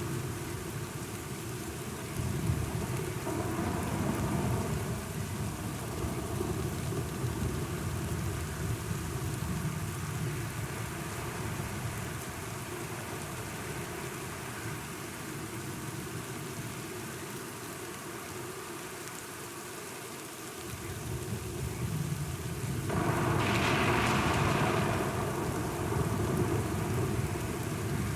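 Steady rain with low rolling thunder. The rumble fades away for a few seconds, then swells back about three quarters of the way through, where the storm briefly grows louder and brighter.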